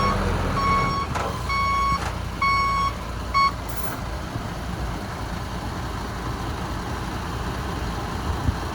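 Reversing alarm of a heavy machine beeping steadily, about one beep a second, then cutting off about three and a half seconds in, over the low, steady running of a diesel engine.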